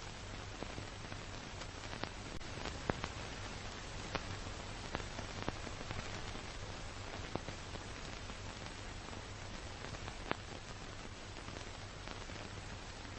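Steady noise of a car being driven, heard as a continuous hiss of road and wind noise over a low engine hum, with scattered sharp clicks and ticks.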